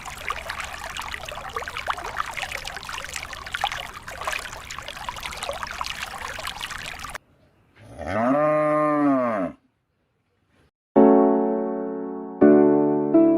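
Water pouring and trickling, cut off abruptly about seven seconds in. Then a single cow moo that rises and falls in pitch. Near the end, piano music starts with notes struck one after another.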